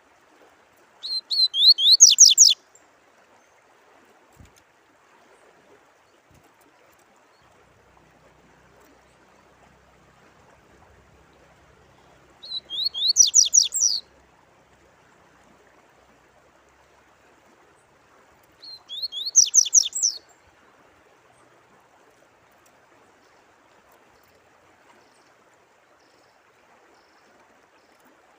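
A songbird sings three short phrases, each a rapid run of down-slurred notes lasting about a second and a half: one about a second in, one near the middle and one about two-thirds through. Under them runs a faint, steady sound of flowing water.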